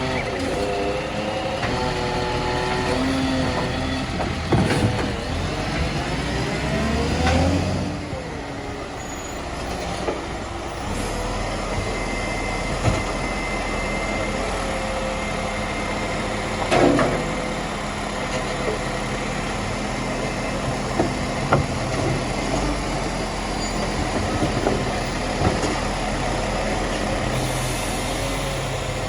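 Garbage truck engine running, its pitch rising and falling a few seconds in, then settling to a steady hum. Several sharp knocks come over it, the loudest about two-thirds of the way through.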